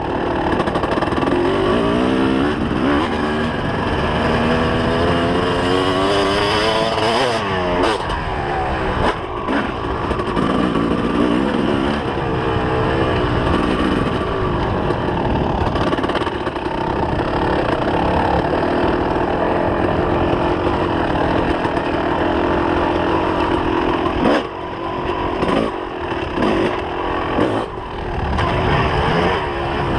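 2004 Kawasaki KX250's two-stroke single-cylinder engine revving hard and falling off over and over as the dirt bike is ridden, the pitch climbing through the gears. There are several short throttle chops near the end.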